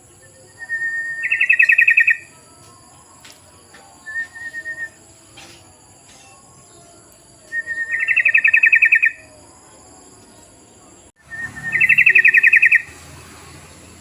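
Yellow-vented bulbul (trucukan) calling three times. Each call is a short note running into a fast, bubbling, pulsed phrase, with a brief softer note between the first two.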